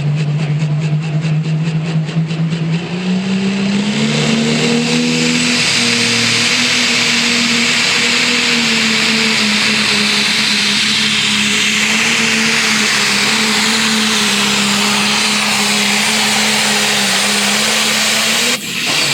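John Deere Pro Stock pulling tractor's turbocharged diesel under full load hauling the sled. The engine note climbs about three to five seconds in, then holds high and steady, sagging a little toward the end. A brief dropout comes just before the end.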